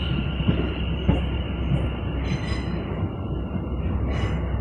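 Greater Anglia Class 720 Aventra electric multiple unit running past close by, with a steady rumble and short knocks as the wheels cross rail joints. A high thin whine rides over it and fades out about two-thirds of the way through.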